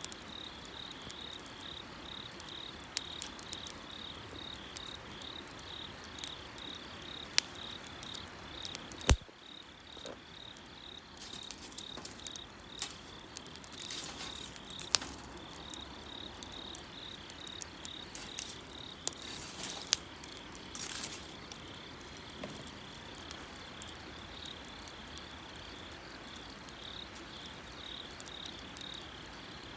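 Wood bonfire crackling, with scattered sharp pops, the loudest about nine seconds in, over the steady, evenly pulsed chirping of insects.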